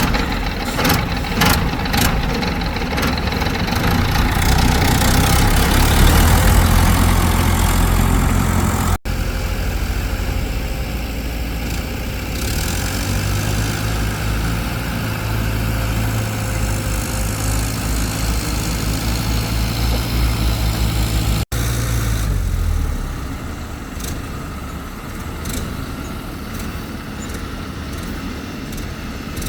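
Excavator's diesel engine running steadily, with a run of sharp clanks in the first few seconds. It becomes somewhat quieter near the end.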